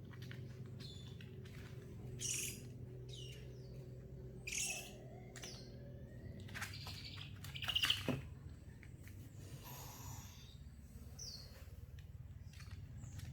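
Baby owl calling with short, high cries a second or two apart, the loudest about two-thirds of the way through, over a steady low hum.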